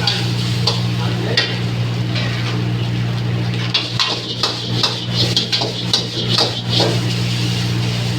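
Metal spatula scraping and clattering in a wok as noodles are stir-fried, with a light sizzle, over a steady low hum.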